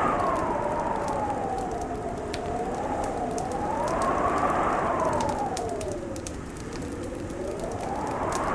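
Wood fire crackling with many small sharp pops, under a howling wind whose whistle slowly rises and falls in pitch: it peaks about four seconds in, sinks low after six seconds, then climbs again near the end.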